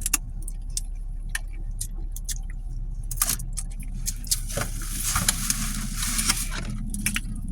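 Seafood being handled and eaten from a takeout box: scattered sharp clicks and crackles with short bursts of rustling, over a steady low hum.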